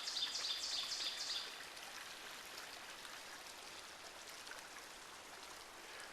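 A bird sings a quick run of repeated high notes that stops about a second and a half in, over a faint, steady rushing hiss of woodland background.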